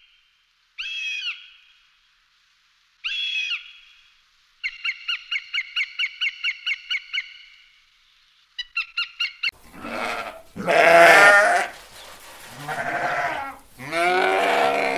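A few short high-pitched chirps, then a fast run of chirps at about four a second. From about two-thirds of the way in, goats bleat loudly several times with a wavering voice.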